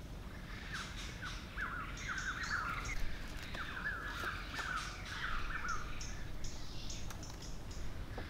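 Small birds chirping in clusters of quick, falling calls for several seconds, with a few faint taps.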